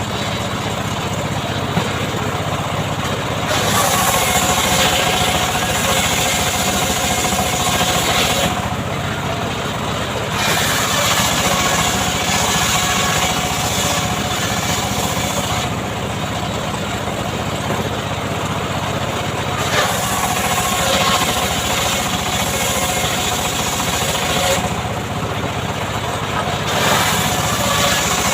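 Homemade chainsaw running continuously, revved up four times for several seconds each and dropping back to lower revs in between.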